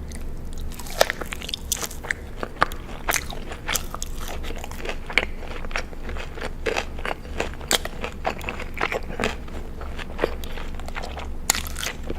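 Close-miked crunchy eating: biting and chewing, a dense run of sharp crackling crunches, over a steady low hum.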